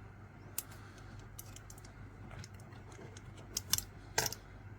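A few light clicks and taps of small hard objects being handled, the loudest about four seconds in.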